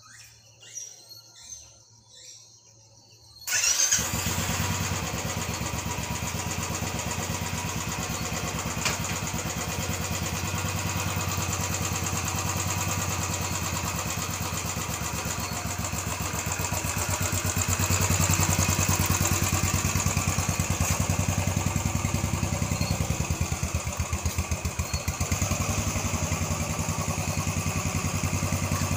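Royal Enfield Bullet 350's single-cylinder engine starting about three and a half seconds in, then running with an even, rhythmic beat. It grows a little louder from about halfway on.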